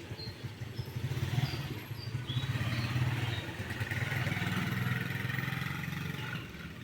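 A vehicle engine passing by, rising about a second in and fading away near the end, with short high chirps over it.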